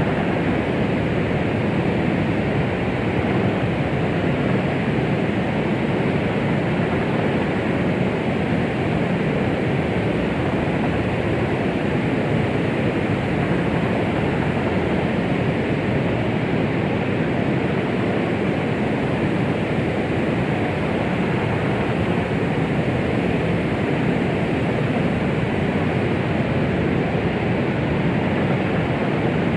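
Continuous white-noise track meant to mimic the sound of the womb for soothing a baby: an even, unbroken rushing hiss, deeper than a bright hiss, with no rhythm or changes.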